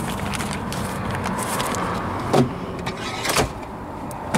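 Steady low mechanical hum, with two sharp clicks about two and a half and three and a half seconds in.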